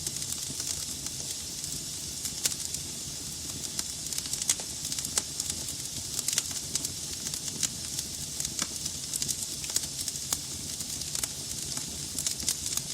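Wood logs burning in a fireplace: a steady hiss of flames with frequent sharp crackles and pops at irregular intervals.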